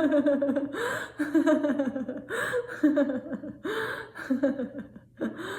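A woman's deliberate laughter-yoga laughter: a string of drawn-out "ha" laughs, each falling in pitch, with quick breaths between them.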